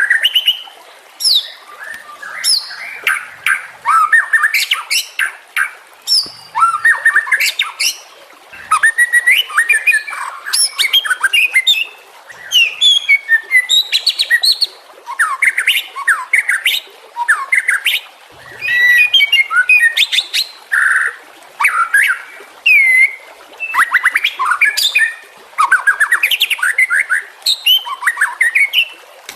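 White-rumped shama (murai batu) singing: rapid, varied phrases of whistles and harsh chatter in bursts with short pauses between them.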